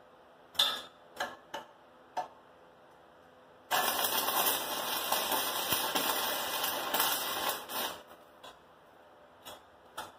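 Stick-welding arc from a 36-volt battery arc welder, crackling steadily for about four seconds in the middle, after a few short sharp taps.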